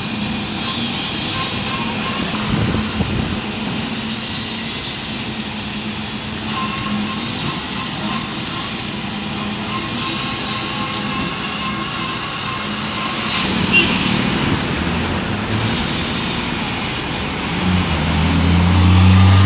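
Heavy road-construction machinery and traffic engines running steadily. One engine grows louder near the end.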